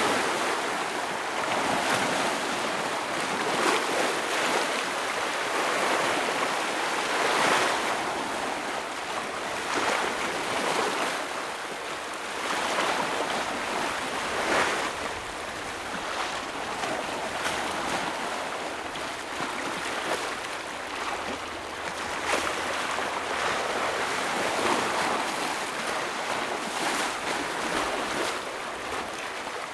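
Ocean waves breaking and washing over shoreline rocks: a continuous rush of surf, with a louder splash every few seconds as each wave hits.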